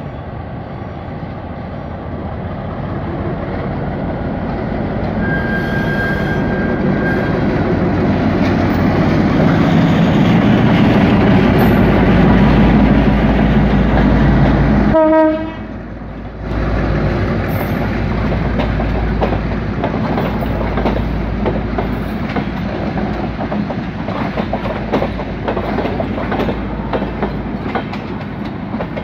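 Diesel locomotive hauling a train of passenger coaches approaching and passing close by. The engine's low drone builds to its loudest about halfway, the sound drops away for a moment, and then the coaches' wheels clatter rhythmically over the rail joints as they roll past.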